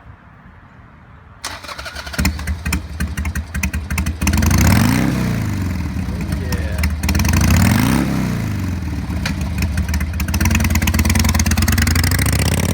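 Harley-Davidson Sportster 883 Custom's V-twin with a Vance & Hines exhaust, cranked on the starter and catching about two seconds in. It is then revved up and down a few times and run on loudly.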